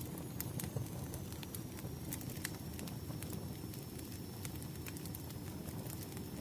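Wood fire crackling: a steady low rumble of flames with scattered sharp pops and snaps. A faint high steady tone runs underneath.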